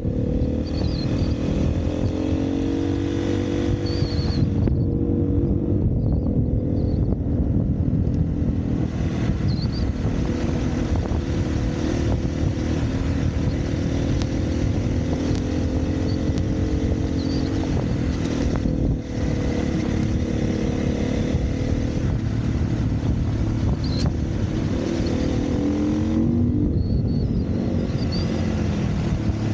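Dirt bike's single-cylinder engine running under way, its pitch rising and falling with the throttle. It eases off briefly a few seconds in and again near the end.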